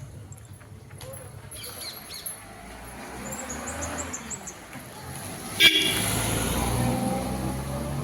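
Street sounds: a sharp, short toot about five and a half seconds in, then a louder steady rushing noise, as of a passing vehicle. Faint bird chirps run underneath.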